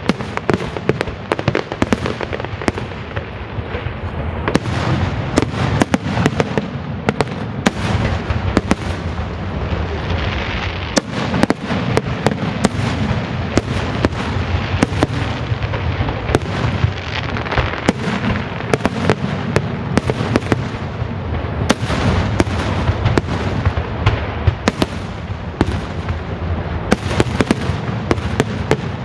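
Fireworks display in full barrage: a dense, unbroken run of bangs and crackles over a constant low rumble.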